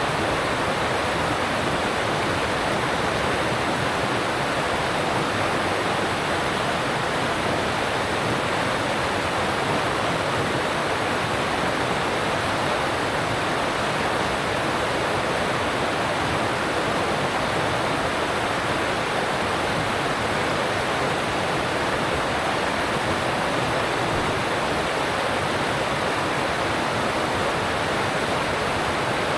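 Alpine stream rushing over rocks: a steady, even rush of water.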